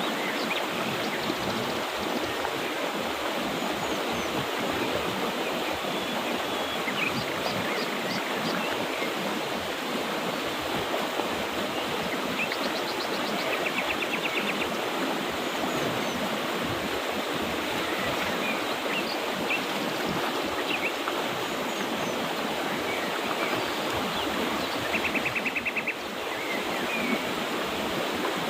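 A mountain river rushing steadily over rocks. Scattered short bird chirps sound over it, and twice a quick trilled call.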